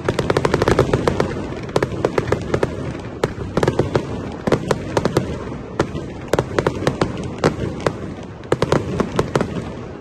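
Fireworks going off: a continuous run of sharp bangs and crackling pops, coming in dense rapid volleys at times, over a steady low rumble.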